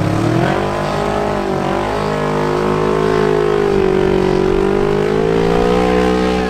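Off-road vehicle engine revving hard and held at high revs under load. Its pitch rises about half a second in, then wavers up and down.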